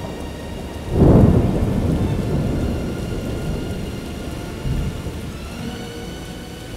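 A thunderclap about a second in that rumbles away over the next few seconds, with a smaller rumble near the five-second mark, over a steady rain. Faint held notes of background music sound underneath.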